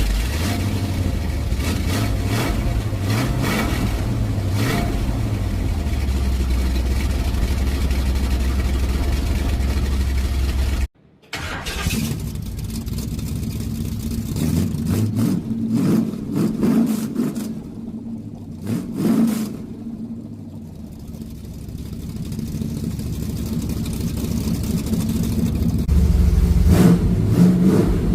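1965 Chevy C10 V8 exhaust through Speedy Sport mufflers. It runs steadily for about ten seconds, then after a brief break it is revved in several short rises and finally grows louder near the end.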